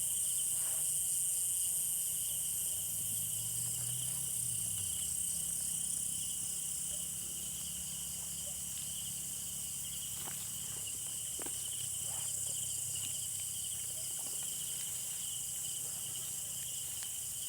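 Night chorus of insects such as crickets, a steady high chirring in two pitches with a rapid pulse, over a faint low hum, with a couple of faint ticks about ten and eleven seconds in.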